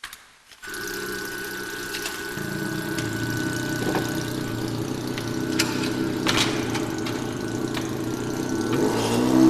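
Electric radio-controlled model car's synthesized engine sound, starting abruptly about half a second in and idling steadily, with a few faint clicks. Near the end the pitch begins to rise and fall as it starts to rev.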